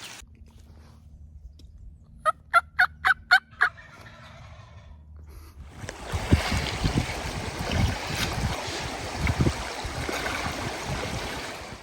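Turkey yelping: a run of six quick, pitched notes at about four a second, a little over two seconds in. From about six seconds on, a loud, steady rushing noise with low thumps takes over.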